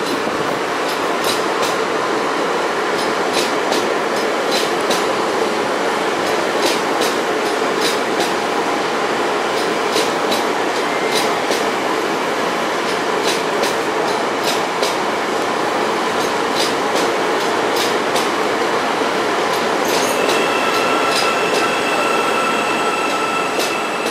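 Hyundai Rotem HRCS2 Intercity+ electric train rolling past along the platform: a steady rumble of wheels and running gear with irregular clicks from the wheels on the track. About twenty seconds in, a steady high-pitched squeal sets in.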